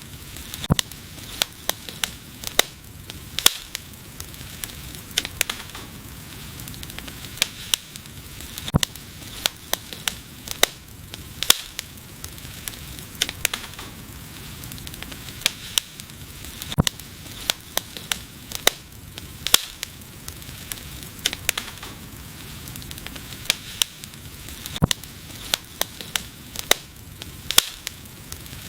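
Wood fire burning, a steady soft hiss with sharp pops and crackles at irregular intervals, several a second.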